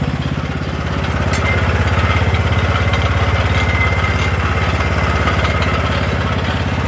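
Small engine idling steadily with an even, rapid low pulse and a faint high whine above it.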